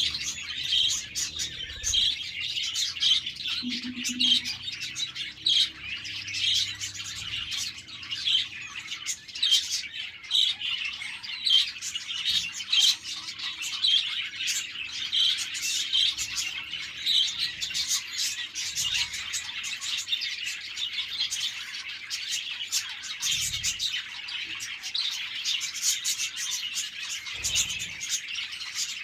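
A flock of budgerigars chirping and warbling continuously, many birds calling over one another in quick high chirps.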